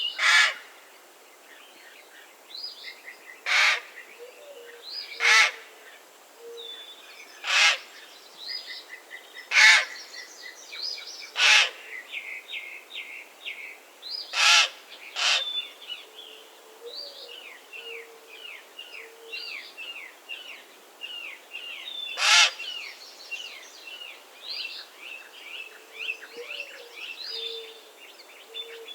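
Common raven giving about nine loud, harsh single calls at irregular intervals, with a gap of several seconds near the middle. Smaller birds chirp and twitter steadily behind.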